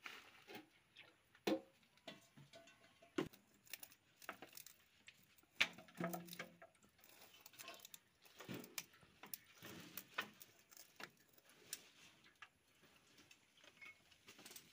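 Faint, irregular clicks and knocks, with a couple of louder knocks about one and a half and five and a half seconds in.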